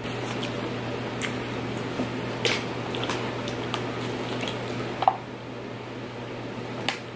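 Close-up wet chewing and mouth sounds of eating spaghetti, with small scattered clicks over a steady low hum. In the second half a plastic water bottle is handled and drunk from, with a sharper click about five seconds in.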